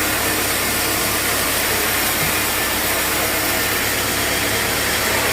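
Sawmill machinery running steadily: a constant engine-like hum under a broad hiss, with no cut starting or stopping.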